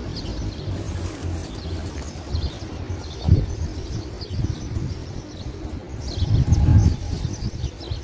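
Birds chirping in short high calls scattered throughout, over a louder uneven low rumble that swells briefly about three seconds in and again near the end.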